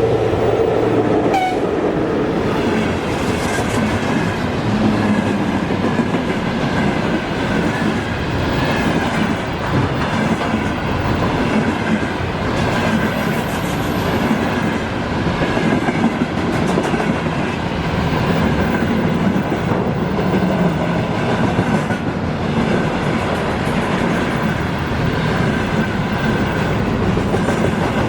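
Freight train hauled by a VL10U electric locomotive rolling past, its wheels on the rails making a loud, steady rumble throughout.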